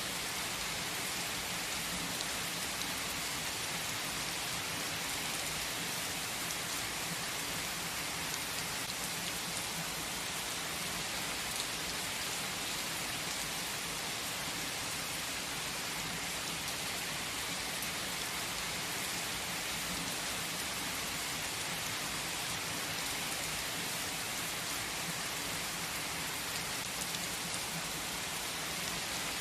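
Steady heavy rain, an even hiss of many drops falling on surfaces, unchanging throughout.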